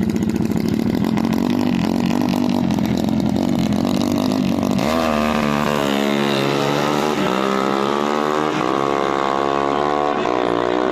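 Drag-racing motorcycle engine running with a rough, even pulse, then about five seconds in a sharper, higher revving sound takes over, its pitch dipping and climbing again three times.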